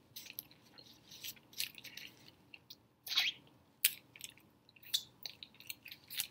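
A person chewing food with closed mouth close to the microphone: irregular soft wet smacks and mouth clicks, one a little louder about three seconds in.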